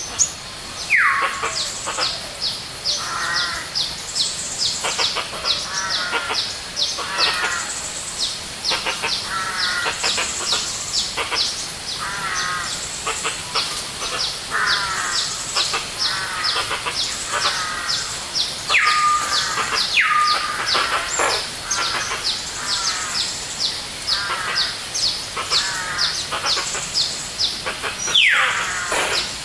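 Several birds singing together in a dense forest chorus: a continuous stream of rapid high chirps, repeated warbling phrases lower down, and a few loud whistles that slide steeply downward, about a second in, twice near the middle and once near the end.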